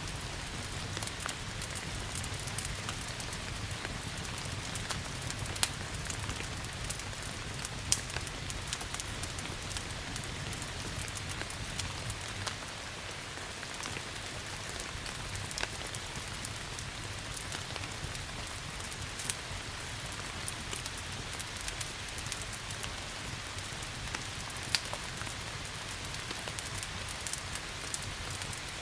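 Steady rain hiss with the sharp, irregular pops and cracks of a wood fire burning, a few louder pops standing out, over a low steady rumble.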